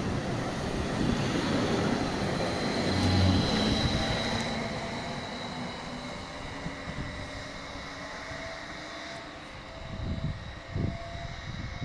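Electric multiple-unit train pulling away and accelerating: its running noise is loudest about three seconds in and then fades as it draws off, with a faint motor whine rising slowly in pitch. A few dull low thumps come near the end.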